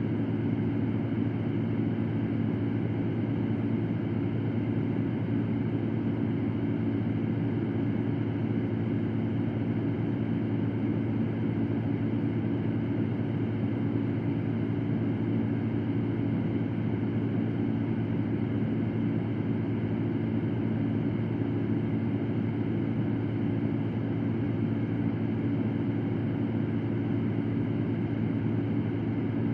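Electric fan running steadily: an even rush of air with a constant low hum under it.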